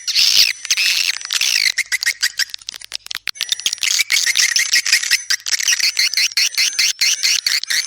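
Swiftlet calls: dense, rapid chirping and twittering, interspersed with many sharp clicks, over a thin steady high tone. This is the kind of swiftlet call track played as a lure for swiftlet houses.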